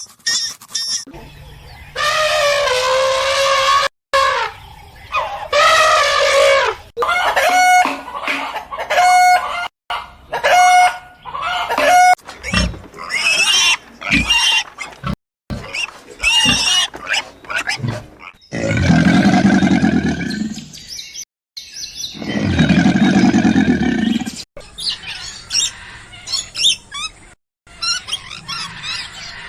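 Farm animals calling in a series of short spliced clips: long wavering calls, a run of rapid repeated calls, then two long, lower calls in the second half.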